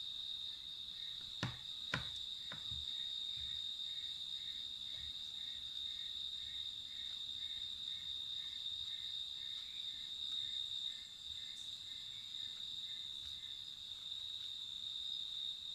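A steady, high-pitched insect chorus, with a second caller pulsing about twice a second through most of it. Two sharp knocks sound about a second and a half and two seconds in.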